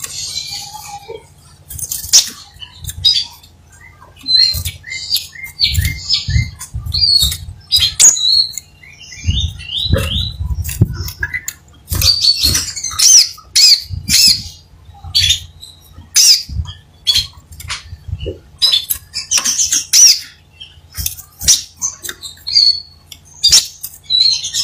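Crimson sunbird singing, with a rapid run of sharp, high chirps and short twittering trills throughout, over a steady low hum.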